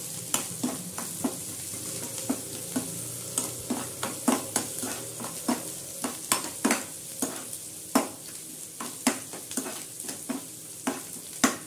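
Chopped onions, garlic, ginger, dried red chillies and curry leaves sizzling as they sauté in hot oil and ghee, stirred with a metal spoon that scrapes and clicks against the pan about once or twice a second.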